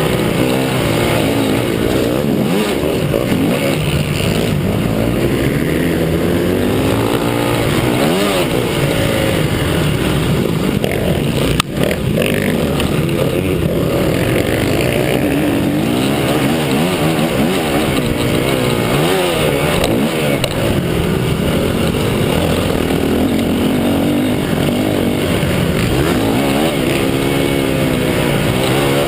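Several motocross bikes running around a dirt track, their engines revving up and down with overlapping rising and falling pitches. A single sharp knock about twelve seconds in.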